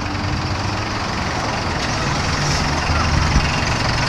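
Heavy truck engine idling steadily, growing gradually louder.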